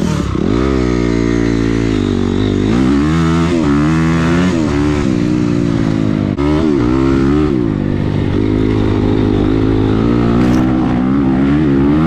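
Motocross dirt bike engine being ridden hard, revving up and easing off again and again as the rider works the throttle and gears, with a brief drop about six seconds in.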